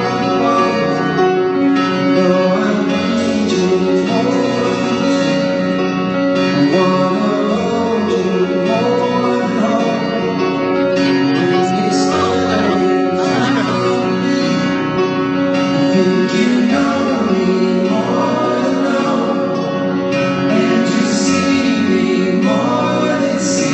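Live band playing a song with guitar and singing, continuous and loud throughout.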